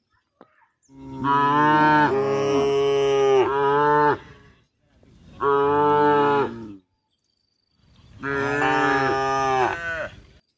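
Cow mooing three times: a long moo, a short one, then another long one.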